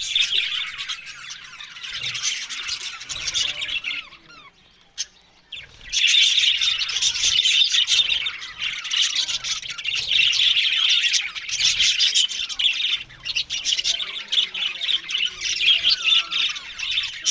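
A colony of budgerigars chattering and chirping together, many birds calling over one another. The chatter drops away briefly about four seconds in, then picks up again.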